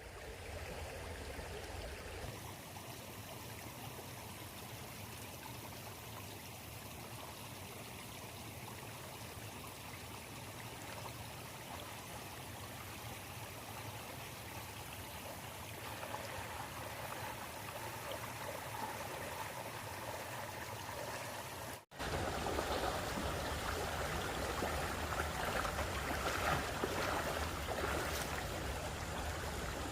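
Water flowing in a stream, a steady rushing; it drops out briefly about two-thirds of the way through and comes back louder.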